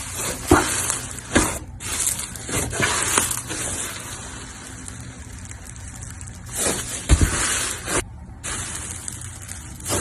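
Slime being squished and worked, giving wet pops and crackles over a hissing wash, with several sharp pops (a loud one about half a second in and another about seven seconds in).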